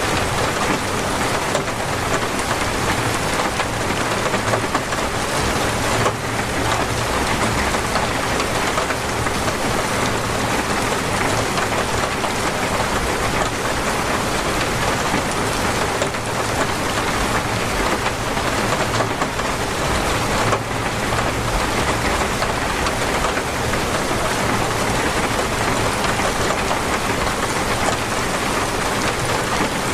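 Torrential rain falling steadily, a dense, even hiss with no let-up.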